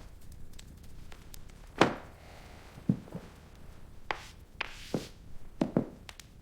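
A string of irregular knocks and thuds, the loudest about two seconds in, over a low steady background.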